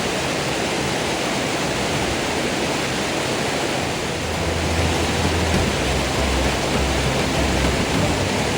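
Steady rushing water, like a waterfall or fast stream. About four seconds in, a deep bass line of music comes in over it.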